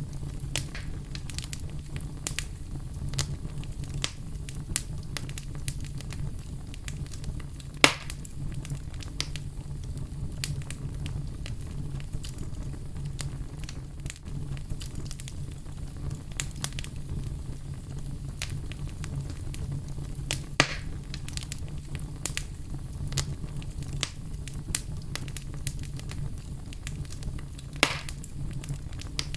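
Fire burning with a steady low rumble and constant irregular crackling, broken by three louder pops about 8, 20 and 28 seconds in.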